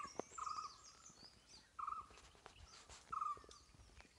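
Birds calling: one bird repeats a short mid-pitched call about every second and a half, four times, while other birds chirp faintly at a higher pitch.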